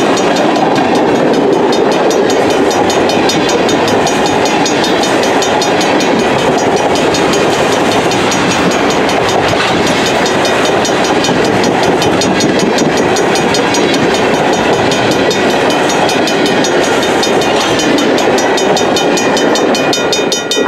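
Freight train cars rolling past: a steady rumble of steel wheels on the rails, with a thin, steady high ringing over it.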